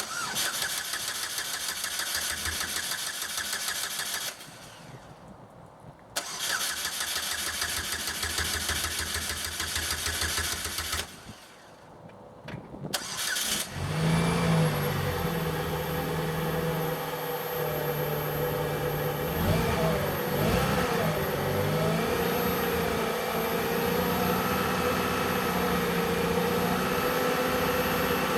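A 2008 Chevrolet Cobalt's 2.2-litre Ecotec four-cylinder being cold-started after sitting unstarted all winter: the starter cranks it in two long tries that don't catch, then after a short stutter it fires about halfway through and settles into a steady idle.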